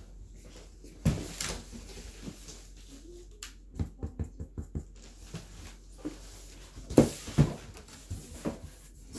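Firework boxes being handled and set down: scattered knocks and thumps, a quick run of small knocks around the middle, and the loudest pair about seven seconds in.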